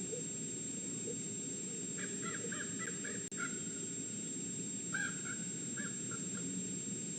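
Crow cawing in two short runs of quick calls, a few a second, over a steady outdoor background hiss.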